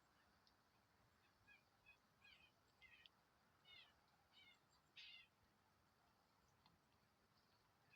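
Faint bird calls: a string of short, high chirps and trills over about four seconds, the last one the loudest, against a quiet outdoor background.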